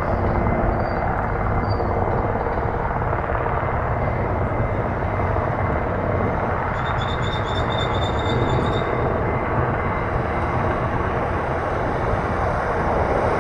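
Steady low rumble of a Boeing 787 Dreamliner's jet engines as the airliner climbs away after takeoff.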